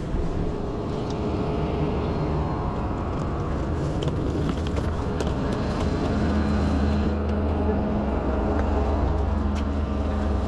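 Steady low rumble of an Amtrak Superliner passenger car heard from its corridor. About six seconds in it changes to a steadier low hum with light clicks of footsteps and rolling luggage.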